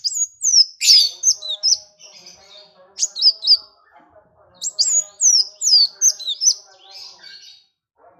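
Songbird singing rapid phrases of high, down-slurred whistled notes in three bursts, with the second burst short. Fainter, lower twittering continues underneath.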